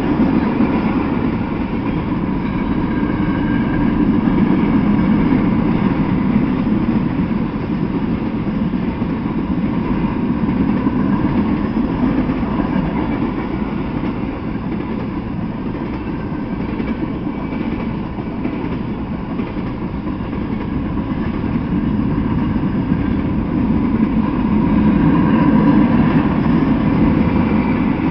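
Freight train of tank cars rolling past: a steady rumble of wheels on rails that swells slightly a few seconds in and again near the end.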